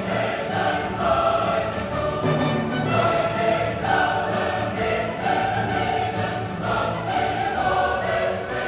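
Background choral music: a choir singing sustained phrases over an orchestral accompaniment.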